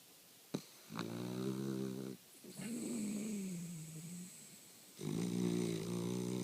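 A lemon beagle snoring in her sleep: three long snores, starting about a second, two and a half seconds and five seconds in, the middle one sliding down in pitch. A short click comes half a second in.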